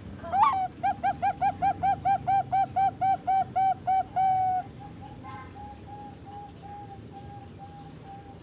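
Young zebra dove (Bangkok perkutut), about three and a half months old, cooing: a rising opening note, then a quick run of about fifteen short ringing coos, some four a second, ending on a longer held note. Fainter, slower coos follow.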